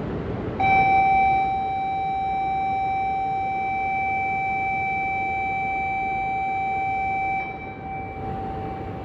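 A single steady high tone, like a horn or warning signal, starts abruptly about half a second in and holds at one pitch for about seven seconds, loudest at its start. It then drops to a fainter tail near the end.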